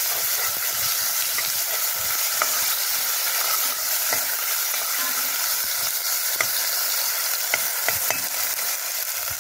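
Onions, tomatoes and peppers sizzling steadily in a cast-iron pot over charcoal, with a metal spoon stirring and clicking against the pot now and then.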